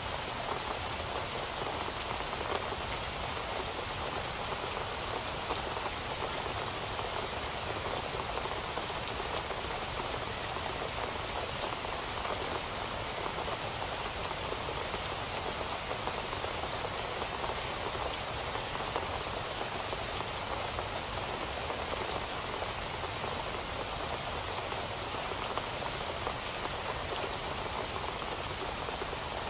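Steady rain falling on a surface, a continuous patter of many small drops.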